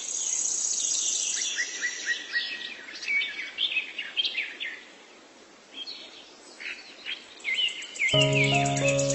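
Birds chirping in short rising and falling calls, with a high rapid trill at the start. Background music with held tones comes in about eight seconds in.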